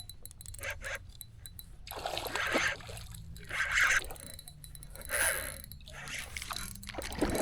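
Several short splashes of water, a hooked fish thrashing at the surface near the kayak.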